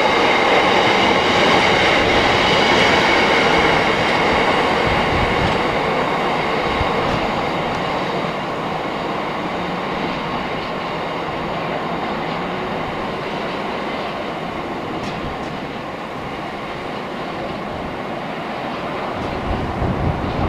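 A train running on the rails, a steady loud rumble with a high ringing over it at first. The ringing dies away after a few seconds and the whole sound slowly grows quieter.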